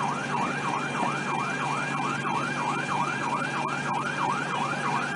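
Emergency vehicle siren in rapid yelp mode, sweeping up and down about three times a second without a break.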